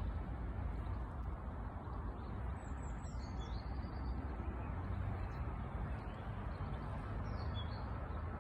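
Bird chirps, two short phrases of high calls that glide downward, about three seconds in and again near the end, over a steady low background rumble.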